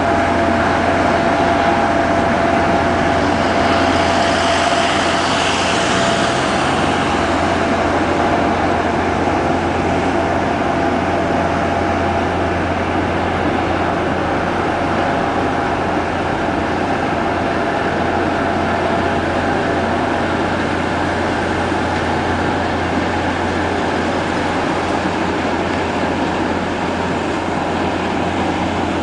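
A ship's engines running with a steady low drone and a loud even rumble, as the ship gets under way. A faint steady whine fades out about twenty seconds in, and a brief hiss rises and falls about five seconds in.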